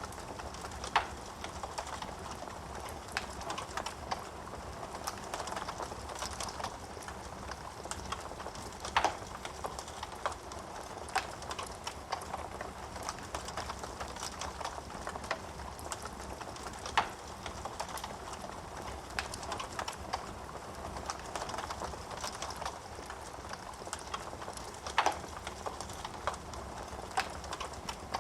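Wood fire crackling in a fireplace: a steady soft hiss of burning with many small ticks, and four louder sharp pops spaced about eight seconds apart.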